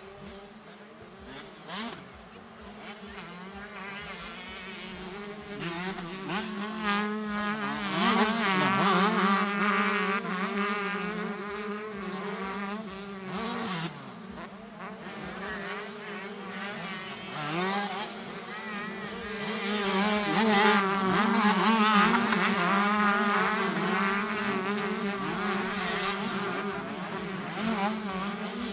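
Several 125cc two-stroke motocross bikes racing, their engines buzzing and revving up and down in a high, wavering pitch. The sound swells twice, about a third of the way in and again near two-thirds through, as the bikes come closer.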